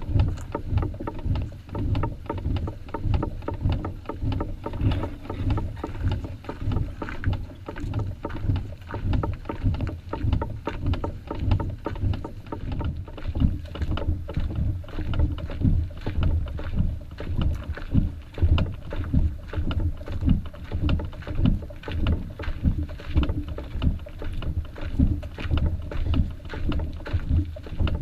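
Footsteps at a steady walking pace, about one and a half a second, each a dull thud, along a portage trail.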